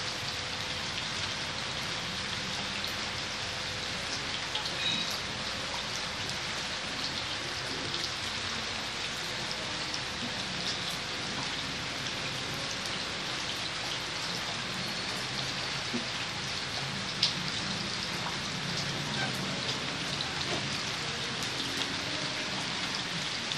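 Steady rain falling on a surface, an even hiss with many small scattered drop ticks, with a faint steady hum underneath.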